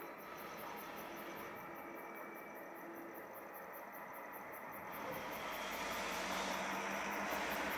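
A train approaching, its running noise growing steadily louder over the last few seconds.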